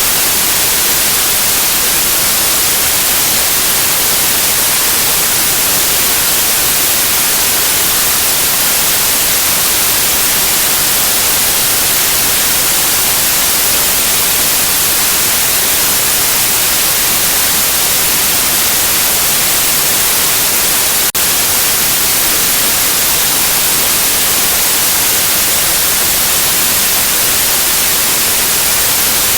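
Steady white noise: an even, unchanging hiss, brightest in the high range, with one tiny momentary glitch about two-thirds of the way through.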